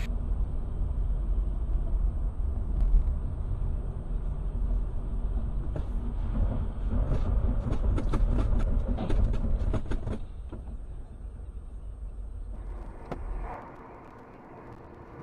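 Steady low rumble of a moving vehicle, with a run of sharp clicks and knocks in the middle; the rumble drops away near the end.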